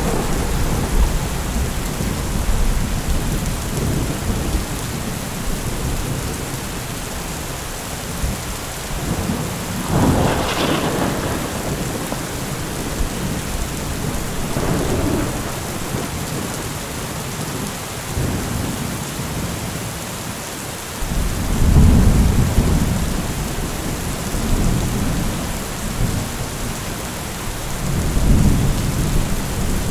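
Heavy rain falling as a steady hiss, with thunder rumbling several times. A sharper crack comes about a third of the way in, and the strongest rumbles come about two-thirds of the way in and near the end.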